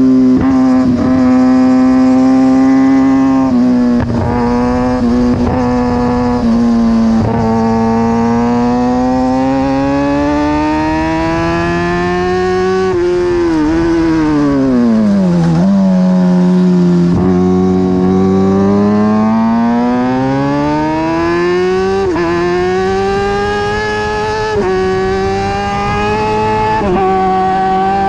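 A 2009 Kawasaki ZX-6R's inline-four engine at racing revs on track, with wind rushing past the fairing. The note holds high with brief breaks at the gearshifts, falls steeply about halfway through as the bike slows for a corner, then climbs again as it accelerates.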